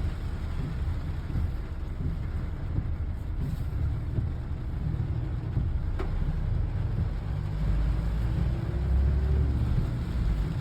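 A motor vehicle running: a steady low rumble with a hiss over it, and a single sharp click about six seconds in. The rumble grows a little louder near the end.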